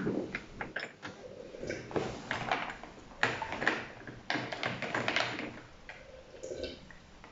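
Close-up eating sounds: irregular crunching, clicking and smacking of food being chewed, coming in several short clusters.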